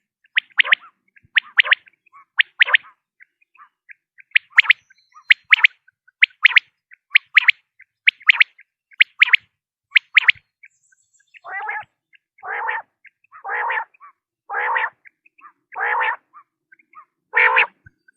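Common quail calling: a series of short, sharp high-pitched calls about one a second, then, about halfway through, a run of six longer, lower, buzzy calls at the same pace.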